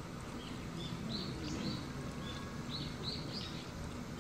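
Small birds chirping: short, high chirps that fall in pitch, coming in quick runs of two or three, over a steady outdoor background hum.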